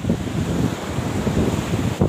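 Wind buffeting the microphone in uneven low gusts, over a steady rushing hiss like surf.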